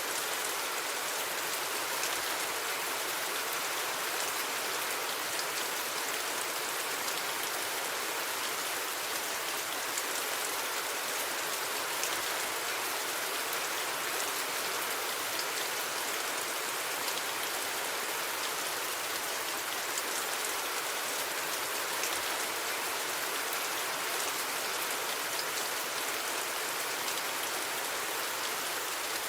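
Steady rain falling: an even, unbroken hiss with the faint patter of individual drops, and no thunder.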